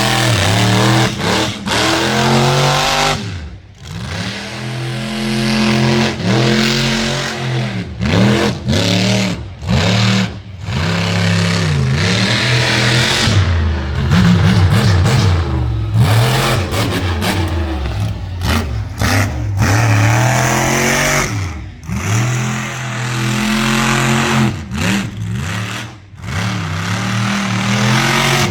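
Car engines revving hard in a demolition-style event, the pitch rising and falling again and again as they rev up and back off. The loud engine sound keeps cutting out briefly.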